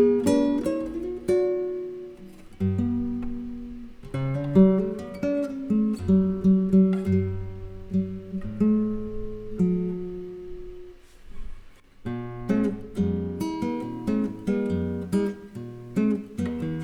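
Guitar duo playing a jazz tune, with a nylon-string flamenco guitar and a Telecaster electric guitar: plucked chords and melody over a moving bass line, with a short pause about twelve seconds in.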